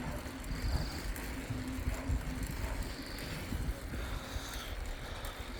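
Bicycle rolling along, with wind buffeting the microphone and a steady low rumble from the tyres and road. A few faint, short insect chirrs come high above it.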